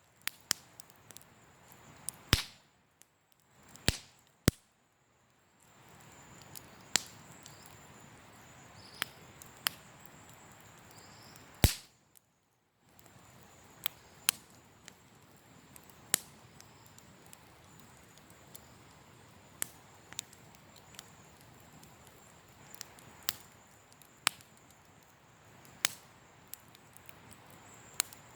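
Wood campfire crackling, with irregular sharp pops and snaps over a low hiss, some much louder than the rest.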